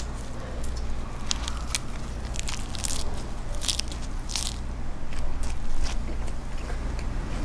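A lettuce wrap of raw fish and squid with chojang being bitten and chewed right at a microphone: crisp, irregular crunches and crackles of the leaf and raw seafood, with wet mouth sounds. The crunches are thickest a few seconds in.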